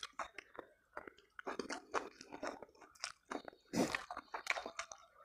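Close-miked chewing and mouth noises of a man eating spicy instant noodles with rice: irregular wet smacks, with a louder burst of mouth noise just before four seconds in.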